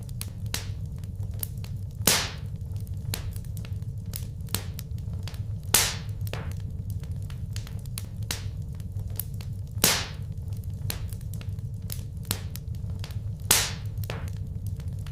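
Wood fire crackling in a fireplace: a steady low rumble under many small ticks, with four louder pops about every four seconds.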